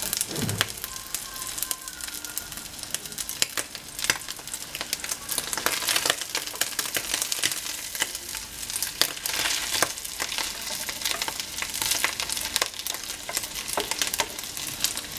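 Rice-and-egg fritters frying in hot oil in a terracotta cazuela: a steady sizzle dotted with frequent crackles, with a spatula scraping in the dish now and then as they are turned.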